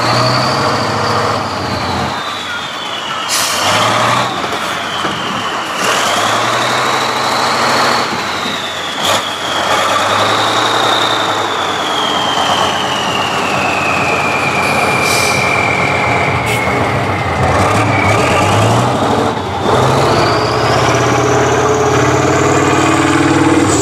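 Tractor engine working hard, its low note swelling and easing, with a high whine that slowly falls and then climbs steeply near the end, and a few brief knocks.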